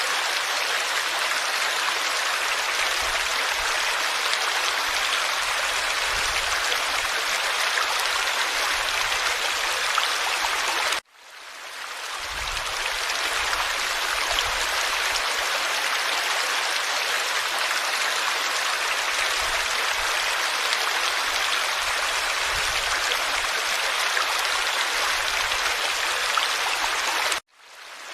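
Forest stream flowing over stones, a steady babbling rush of water. It cuts out abruptly twice, about eleven seconds in and again near the end, and fades back in over a second or two each time.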